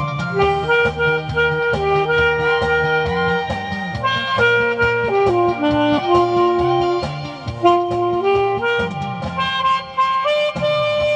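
Alto saxophone playing a melody of long held notes with slides between them, over a backing track with a bass line and a steady beat.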